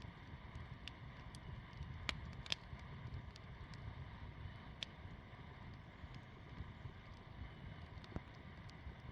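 Small wood campfire of birch bark and sticks crackling, with sharp pops now and then, the loudest about two seconds in. Under it runs a low rumble of wind on the microphone.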